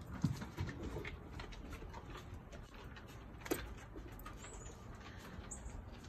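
Faint bird chirps over outdoor ambience, with a single sharp click about halfway through.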